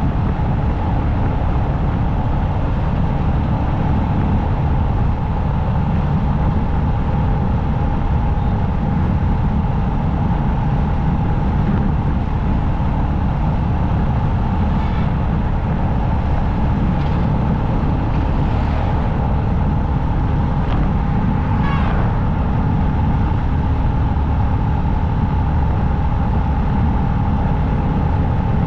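Motorcycle riding steadily at highway speed: a constant rush of wind and road noise with the engine's drone and a steady hum, unbroken throughout.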